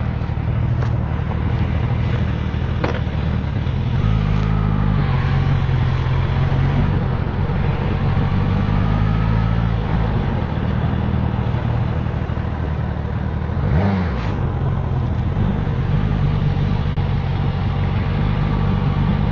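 Suzuki GSX-S1000GT motorcycle's inline-four engine running as the bike is ridden, its pitch rising and falling several times as it accelerates and eases off.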